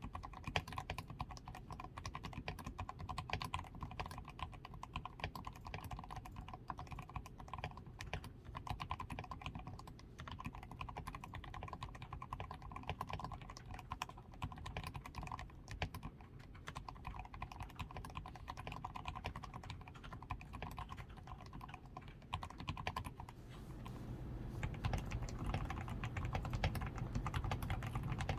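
Continuous fast typing on a DAREU A87 Pro mechanical keyboard with Krytox 105-lubed switches, lubed stabilisers, a tape-modded PCB and XDA keycaps: a dense run of keystroke clacks, growing louder with more low thock about 24 seconds in.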